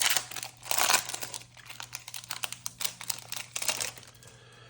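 Foil trading-card pack wrapper crinkling and being torn open, a rapid run of crackles and clicks, loudest in the first second or so and dying away near the end.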